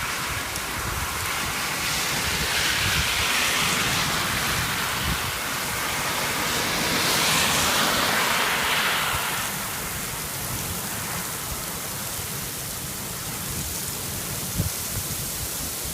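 Heavy rain pouring down in a steady hiss, swelling heavier twice, about three seconds in and again around eight seconds.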